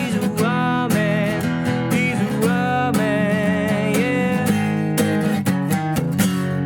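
Acoustic guitar strumming a country-folk song, with long wavering melody notes held over the chords in an instrumental break.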